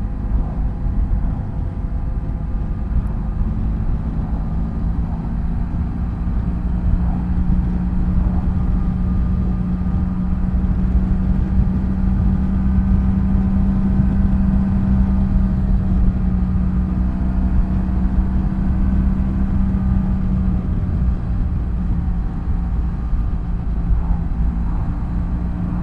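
BMW F800GS parallel-twin engine running steadily at cruising speed, its even drone holding one pitch under a dense low rumble.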